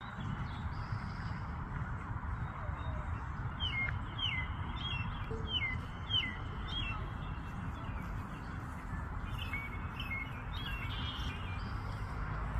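A small bird chirping: a run of about six short chirps, each sliding down in pitch, then a few more later, over a steady low background rumble.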